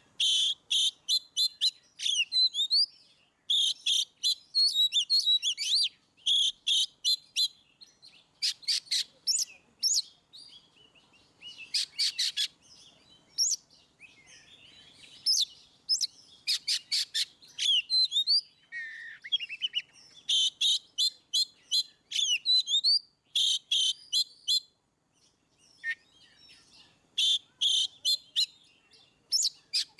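Oriental magpie-robin (kacer) singing its full, open 'ngeplong' song: phrases of rapid repeated high notes and sliding whistles, broken by short pauses.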